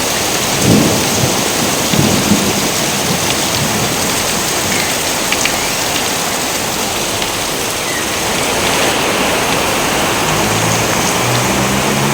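Steady heavy rain with thunder, low rumbles swelling about a second and two seconds in. Near the end a few low humming tones come in under the rain.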